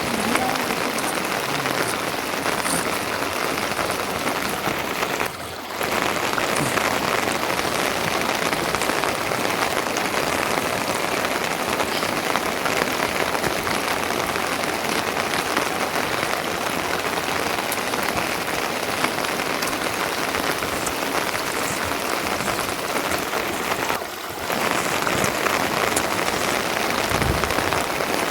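Steady heavy rain falling on a surface, an even hiss that dips briefly twice.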